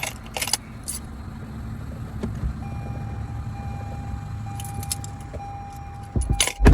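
Keys jangling and clicking at a car over a steady low rumble, with a faint steady tone sounding through the middle, then two loud thuds near the end.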